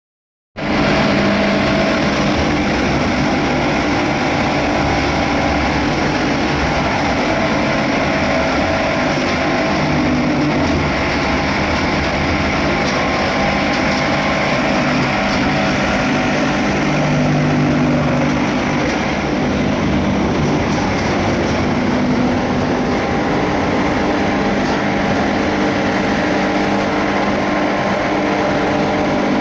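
Rormak plastic recycling cutting machine running and cutting laminated sacks: a loud, continuous machine noise with steady humming tones. It starts abruptly about half a second in.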